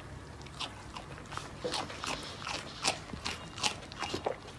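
Alpaca chewing close up, a run of crisp, uneven crunches about two or three a second.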